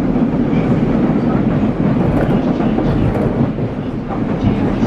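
Nagoya Municipal Subway 2000 series train running at speed, heard from inside the car: a steady low rumble of wheels and traction motors on the track, with a few faint clicks in the middle.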